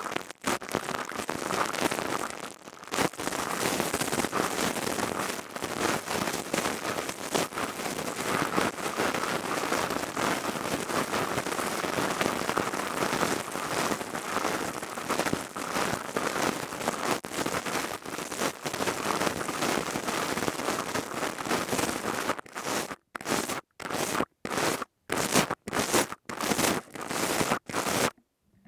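Crystal tubes worked close to the microphone, making a dense, steady crackling; about 22 seconds in it breaks into a run of about nine short strokes with silent gaps between them.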